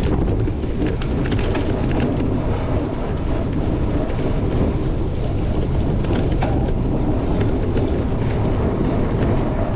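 Steady wind buffeting a bicycle-mounted camera's microphone, with the low rumble and scattered clicks and rattles of a cyclocross bike riding over rough ground.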